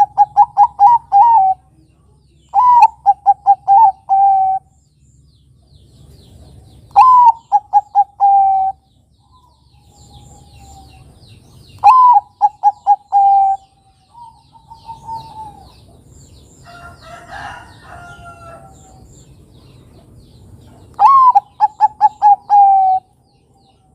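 Bangkok-type zebra dove (perkutut) cooing: five phrases, each a higher opening note followed by a quick run of short staccato coos, with pauses of a few seconds between them. Fainter bird calls come in the middle pause.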